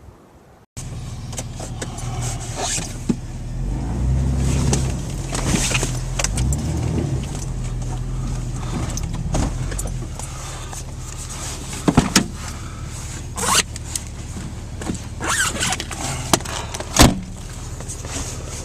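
A vehicle engine running as it is driven through deep snow, starting suddenly under a second in and rising in pitch about four to seven seconds in. A few sharp knocks come about twelve and seventeen seconds in.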